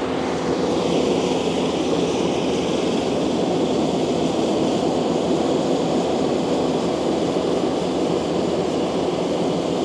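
Takeuchi TL12V2 compact track loader running steadily with its high-flow mulcher attachment, a dense, even machine noise.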